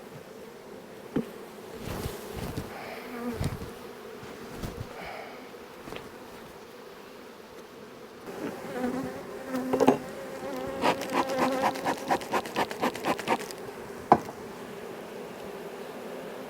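Honeybees buzzing steadily in a swarm around opened hive boxes. Scattered knocks in the first few seconds, then a quick run of sharp taps about eleven seconds in and one loud knock just after, as the frames are cleared of bees.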